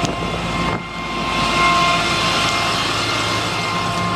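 5.9-litre Cummins diesel of a Ford F650 rollback running at a raised high idle with the PTO engaged, a steady engine hum with a thin high whine over it and some hiss.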